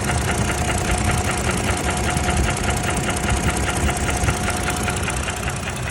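Toyota 2GR-FKS 3.5-litre V6 running, with an even, rapid knock repeating several times a second. The owner takes the knock for not normal. A thin steady whine runs beneath it and stops about five seconds in.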